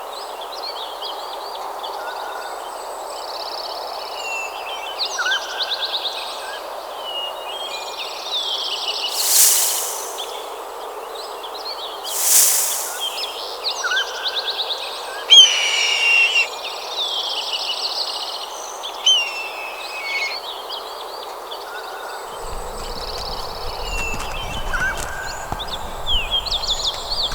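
Several songbirds chirping and trilling over a steady background hiss, with two loud rushing swooshes about a third of the way in and a low rumble joining near the end.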